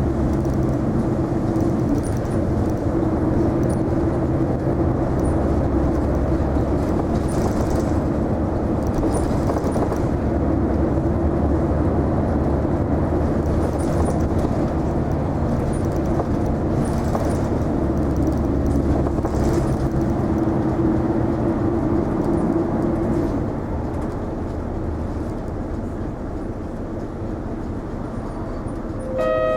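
Isuzu Erga non-step city bus heard from inside the cabin while driving: a steady diesel engine drone with road and tyre noise. About 23 seconds in, the engine note drops away and the running sound goes quieter, as the bus eases off. A short electronic chime sounds right at the end.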